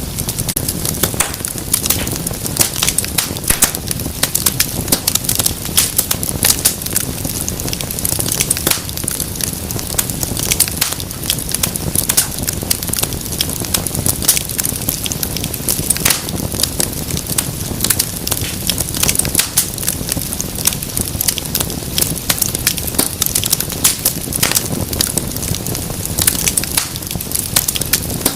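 Wood fire crackling and popping: dense, irregular sharp snaps over a steady low rumble of burning.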